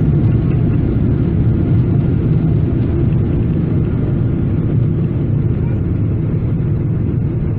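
Steady low rumble of cabin noise inside a Boeing 777-300ER airliner in flight or on the runway, engine and airflow noise blended together.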